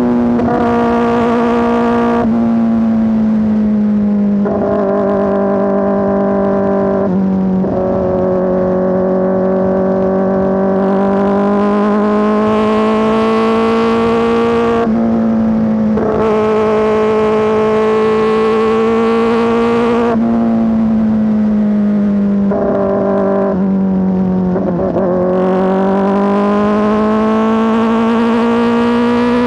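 Kawasaki ZX-4RR's 399 cc inline-four engine running through an SC-Project S1 aftermarket exhaust while riding. Its note holds steady and loud, drifting slowly up and down, and its pitch jumps abruptly several times as gears change.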